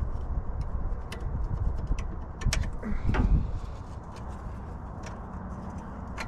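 Scattered light metallic clicks and taps of hand tools working a seized cotter pin out of a diesel engine's linkage, over a low steady rumble, with a short pitched sound about three seconds in.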